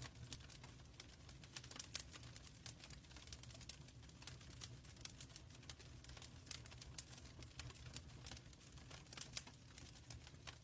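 Fire burning in a fireplace, faintly crackling with many quick, irregular pops and snaps over a low, steady rumble.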